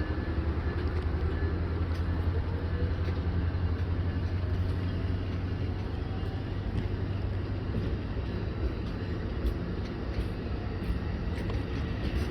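Train rolling by, a steady low rumble with no clear changes.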